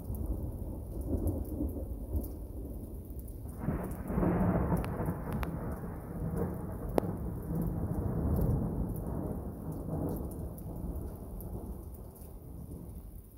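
Thunder rumbling through steady rain. About three and a half seconds in, a louder peal swells up and rolls on for several seconds before slowly fading. A few sharp drop clicks sound over the rain.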